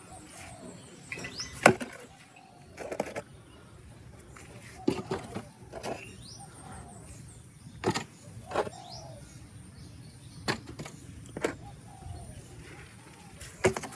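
Mud-covered plastic toy animals knocking and clacking as they are picked up and set down one by one, a sharp knock every second or two.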